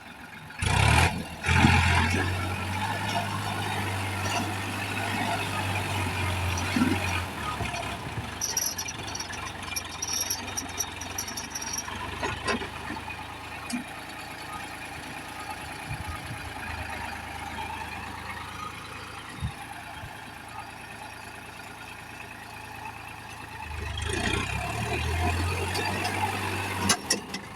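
Diesel tractor engine running. It is loud with a steady low hum from about a second in until about seven seconds, then quieter through the middle, and loud again for the last few seconds.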